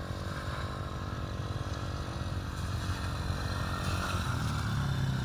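Small youth quad's single-cylinder four-stroke engine running at a steady pitch as it rides through mud, slowly getting louder.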